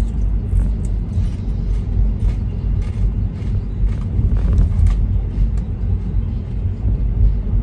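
Steady low road rumble inside a moving car's cabin, with faint scattered ticks above it.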